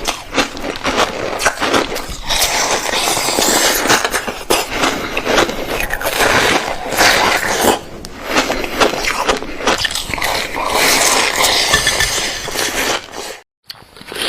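Close-miked crunching and cracking of frozen milk ice being bitten and chewed: a dense run of crisp crackles that breaks off briefly near the end.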